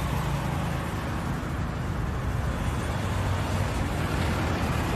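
Jet airliner's engines, heard as a steady broad rumble with a strong low hum.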